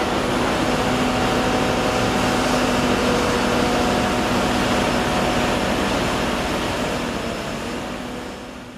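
Steady machine noise with a constant low hum, fading out near the end.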